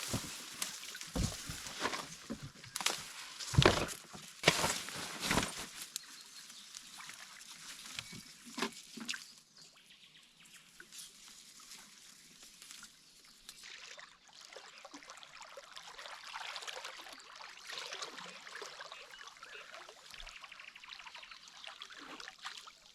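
Water sloshing and splashing, with a run of sharp splashy knocks over the first few seconds, then a softer, uneven trickling.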